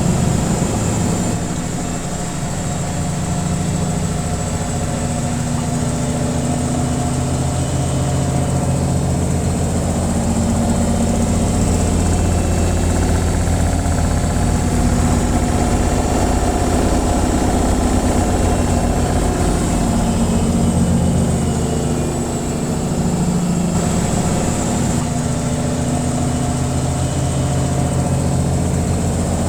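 Washing machine on its spin cycle: a steady motor hum and low drum rumble with a few held humming tones.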